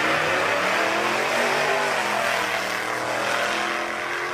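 A car engine running at high revs, its pitch rising to a peak about a second and a half in and then falling, over a loud rushing noise.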